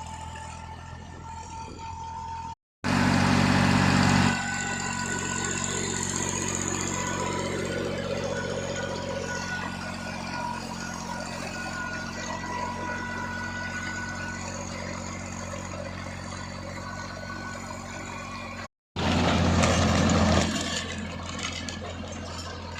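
Massey Ferguson tractor's diesel engine running steadily. Twice the sound cuts out briefly and comes back louder for about a second and a half before settling again.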